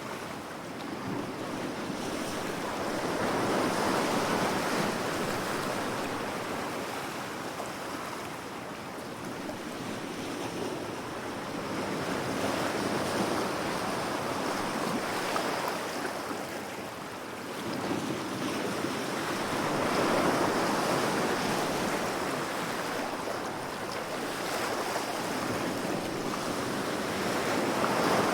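Ocean waves washing ashore, a continuous surf noise that swells and ebbs every several seconds. Some wind noise on the microphone.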